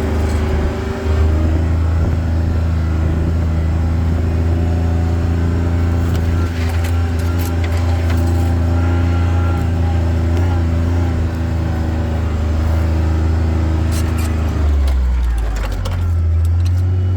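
Vehicle engine running steadily while driving, its pitch shifting about a second in and again near the end as it slows and picks back up, with a few rattling clicks along the way.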